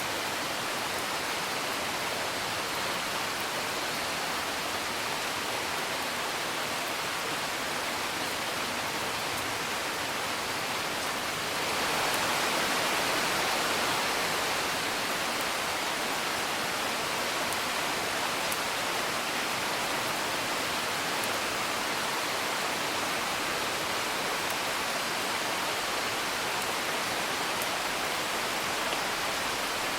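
Steady hiss of rain, with faint sparse crackles of a wood fire. The hiss swells for about two seconds near the middle.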